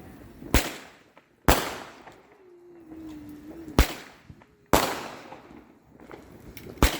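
Fireworks going off: five sharp bangs at uneven intervals, each followed by a short echoing tail.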